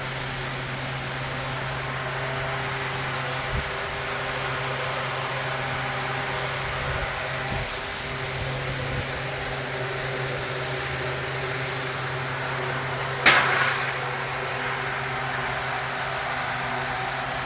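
Steady hum of a running motor, with one brief loud hiss about three-quarters of the way through.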